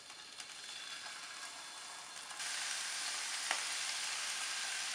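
Slices of bull testicle sizzling in hot olive oil in a frying pan as they are laid in, the sizzle growing and stepping up louder a little past halfway, with one light click a second later.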